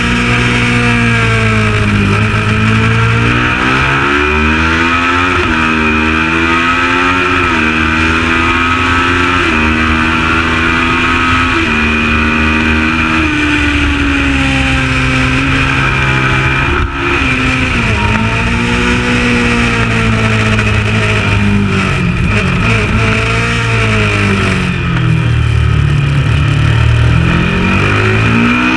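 Kawasaki ER650 Supertwin race bike's parallel-twin engine at racing speed, climbing through the gears in repeated rising sweeps. It drops in pitch while changing down about two-thirds through, then accelerates hard again near the end.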